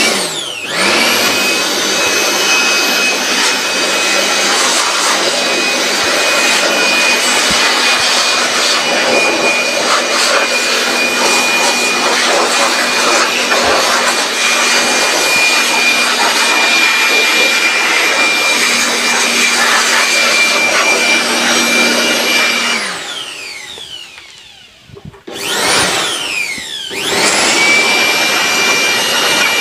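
Handheld electric air blower running at full speed with a steady high motor whine, blowing dust out of a CRT television. It spins up at the start, winds down and stops about 23 seconds in, runs for a moment around 25 seconds, then spins up again near the end.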